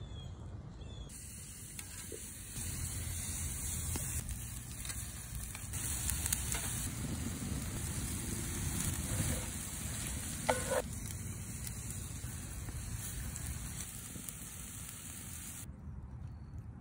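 Food sizzling in a cast iron skillet over a wood fire, a steady frying hiss that jumps in level a few times. A brief sharp sound stands out about ten and a half seconds in.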